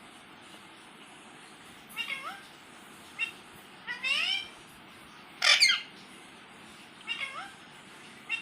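A series of short meows, about six of them, each rising in pitch, with the loudest about five and a half seconds in. Several are identical, typical of one recorded meow played over and over.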